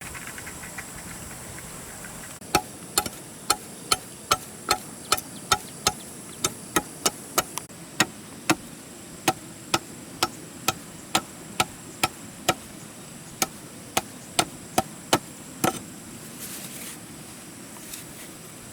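A hand tool striking repeatedly, chopping or hammering, in sharp knocks about two a second that stop a little before the end.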